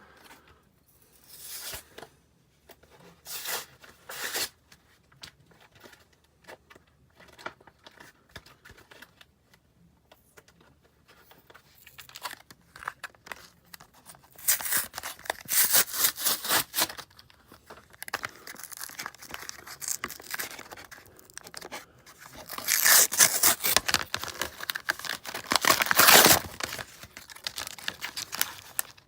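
Plastic and cardboard blister packaging of a trading-card pack being torn open: irregular bursts of tearing and crinkling, short at first, then two long, louder stretches in the second half.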